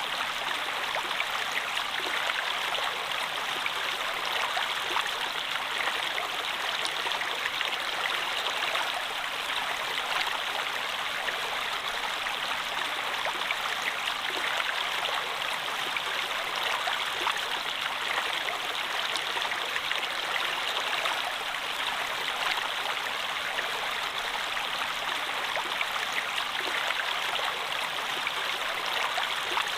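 Stream water running steadily: an even, constant rush with scattered small splashes and drips.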